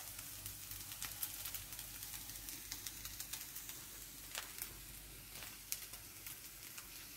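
Food sizzling faintly in a frying pan: a steady hiss with scattered small pops.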